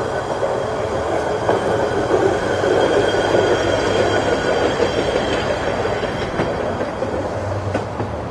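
Train rolling past on the rails: a steady rumble that swells toward the middle and eases near the end, with a few sharp clicks.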